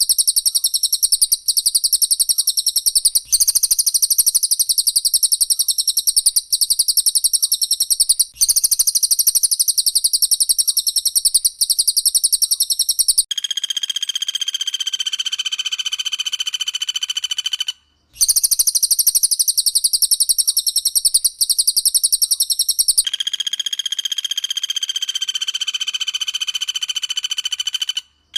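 Recorded calls of a cililin and a common flameback (pelatuk bawang) taking turns in rapid-fire bursts. A very high, fast rattling trill repeats in runs a couple of seconds long, then gives way to a lower, steady buzzing trill, and the pattern runs twice.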